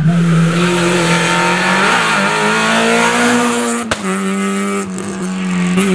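Rally car engine running at high revs through a bend, holding a high pitch that climbs a little, with a sharp break about four seconds in before it picks up again.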